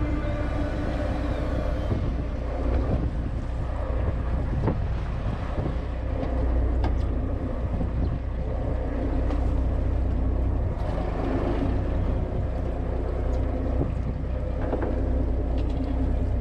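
Fishing boat engine running steadily with a low rumble, with wind buffeting the microphone.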